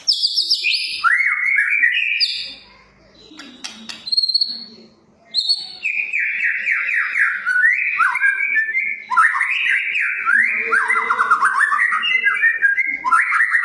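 White-rumped shama (murai batu) singing a fast, varied song of rapid whistled notes. There is a short gap early on, then continuous song from about five and a half seconds in.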